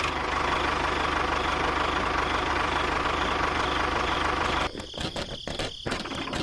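Small motor running steadily with a fast low pulsing, cutting off abruptly about three-quarters of the way through, followed by scattered clicks and knocks.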